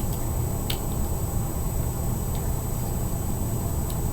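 Steady low background hum with faint hiss, broken by a couple of faint small clicks of fingerboard parts being handled.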